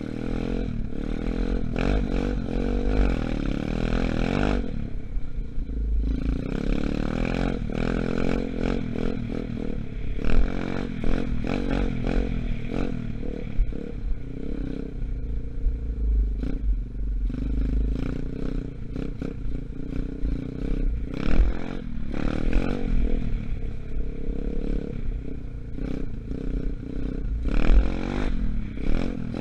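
125cc Gunshot dirt bike, its engine still being run in, running and revving up and down as it is ridden, with scattered clattering knocks.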